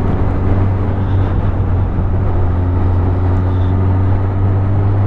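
Suzuki Bandit's inline-four engine running at a steady pitch while the motorcycle cruises, with wind rushing over the rider.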